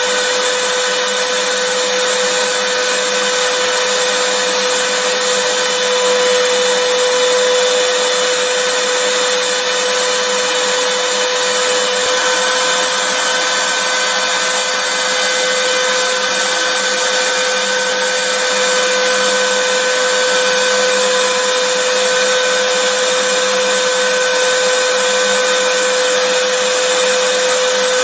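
Vacuum cleaner running continuously: a steady, even rushing of air with a constant motor whine. A higher whine grows stronger about twelve seconds in.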